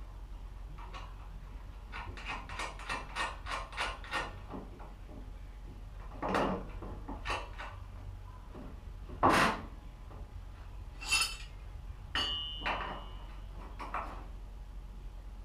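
Metal tools and parts clicking and knocking during hand work: a quick run of about eight light clicks, then scattered louder clunks, one ringing briefly.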